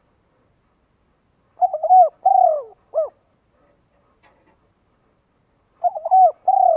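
A bird calling: a phrase of about five short, low, arched notes, given twice about four seconds apart.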